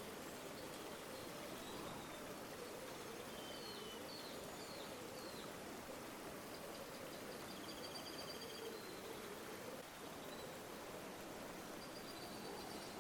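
River water flowing steadily, with small birds calling over it: a few short chirps about three to five seconds in, a trill around eight seconds, and another trill near the end.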